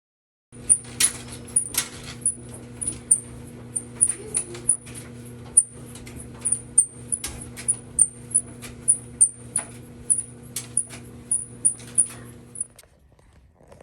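GE clothes dryer running: a steady motor hum with a high squeak about twice a second as the drum turns, which the owner sets out to cure by replacing the drum seal. It shuts off near the end.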